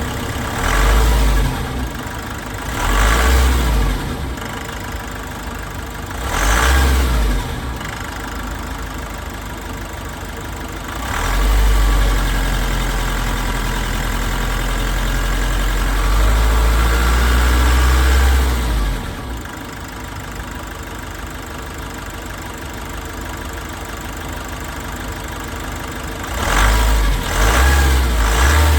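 Nissan NV350 Caravan's YD25 turbo-diesel engine idling and being revved: short blips about a second in, around three seconds and around six seconds, a longer rev held for about eight seconds in the middle, and two more blips near the end. A running test of a used engine.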